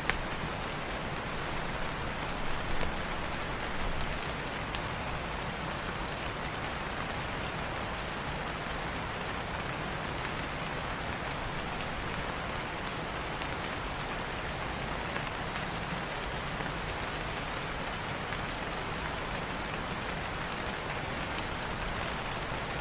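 Steady rain falling on foliage, an even hiss with a few louder drops a few seconds in. A short high chirp sounds four times, a few seconds apart.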